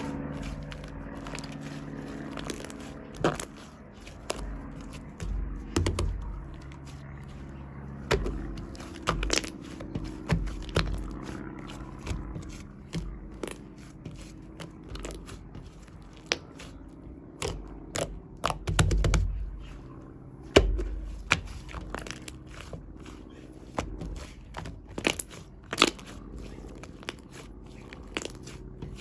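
Hands pressing, stretching and poking shaving-foam slime, giving many irregular small crackling clicks and pops with occasional soft thumps.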